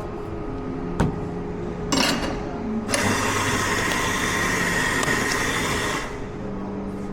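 Coffee-bar machine running steadily for about three seconds, after a sharp click about a second in and a brief burst just before it.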